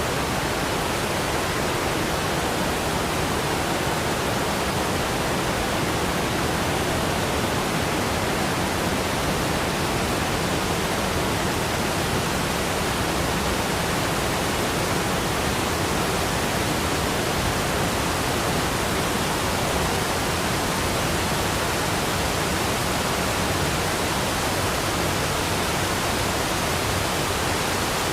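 Waterfall: a steady, unbroken rush of falling water, even from deep to high.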